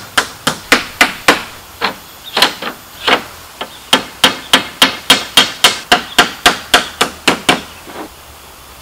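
Hammering during bamboo house construction: a steady run of sharp hammer blows, about three to four a second, with a slower, uneven patch a few seconds in. The blows stop about a second before the end.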